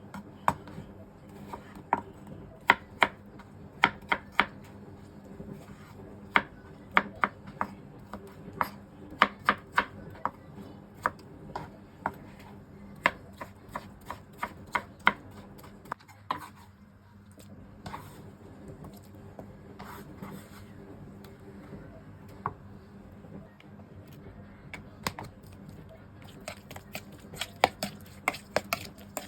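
Kitchen knife cutting food on a cutting board: sharp, irregular knocks of the blade on the board, pausing briefly a little past the middle. A low steady hum runs underneath.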